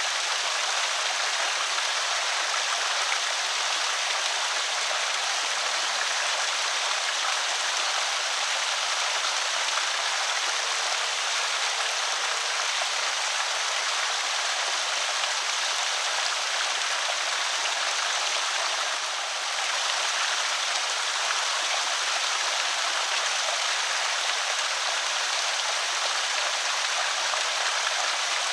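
Water running steadily over a small creek spillway: a constant rushing splash.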